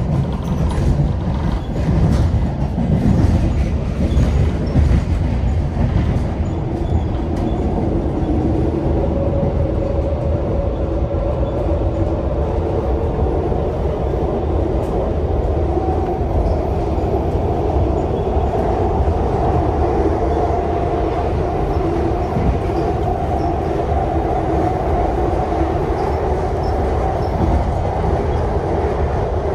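MARTA rapid-transit train running at speed, heard from inside the car: a steady rumble of wheels on rail, with a few clicks in the first several seconds. A steady hum of several tones comes in about eight seconds in and carries on over the rumble.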